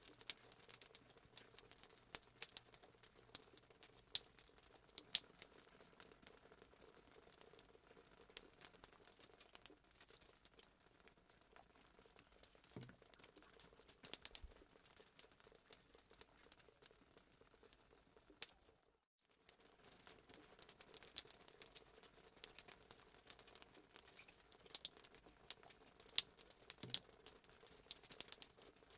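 Fireplace crackling sound effect: irregular quick pops and crackles of burning wood over a faint steady hiss, cutting out for a moment about 19 seconds in.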